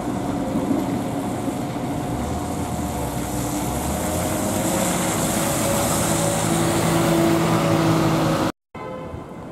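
A public-transport vehicle running, with steady motor tones over a noisy rumble that slowly grows louder, cut off abruptly near the end.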